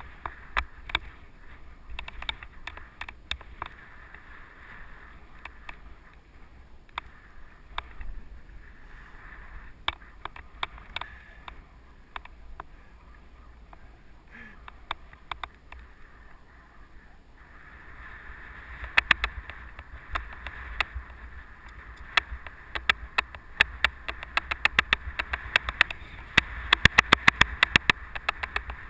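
Mountain bike rolling along a dirt trail: the rushing noise of tyres and wind rumble on the microphone, with frequent sharp rattles and clicks from the bike over bumps. The rushing grows louder about two-thirds of the way in, and the rattles come thick and fast near the end.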